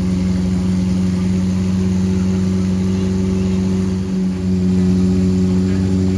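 A car engine running steadily with an even drone, dipping briefly about four seconds in before settling back.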